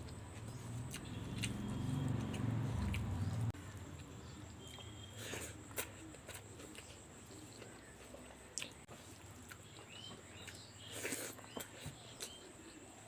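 Someone chewing and eating, with wet mouth clicks and smacks. A low hum cuts off sharply a few seconds in, and short bird chirps come now and then.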